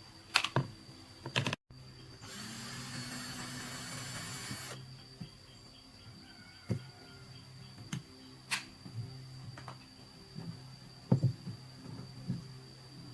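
Workshop tool sounds: scattered knocks and clicks of metal tools being handled, with a loud hissing, whirring burst of about two and a half seconds a little after two seconds in.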